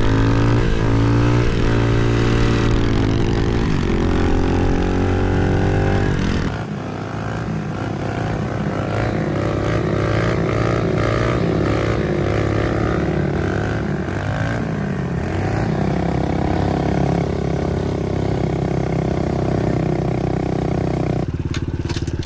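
Pit bike engines running and revving as the bikes ride, their pitch rising and falling with the throttle. The sound changes abruptly twice, about a third of the way in and near the end.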